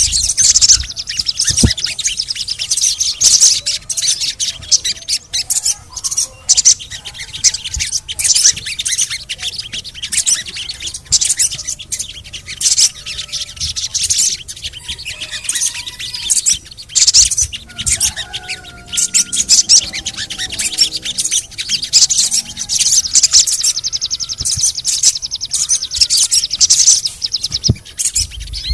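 Sogon (a sunbird) singing: fast, loud, high-pitched chirping and twittering without pause, with a lower warbling phrase in the middle.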